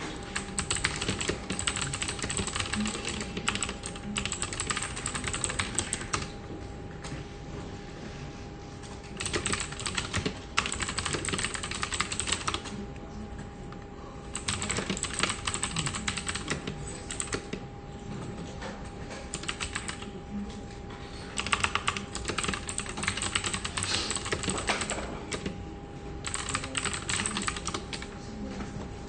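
Computer keyboard being typed on in quick runs of keystrokes, each run lasting a few seconds with short pauses between, over a faint steady hum.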